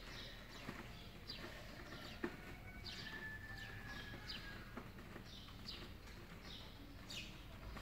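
Faint bird chirping: short, falling chirps repeated about once or twice a second. A single sharp click a little over two seconds in.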